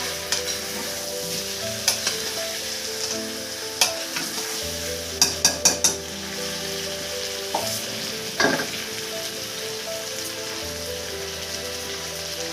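Chicken and potato curry sizzling in a two-handled wok while a metal spatula stirs it, with sharp clacks and scrapes of the spatula against the pan, including a quick run of four about five seconds in.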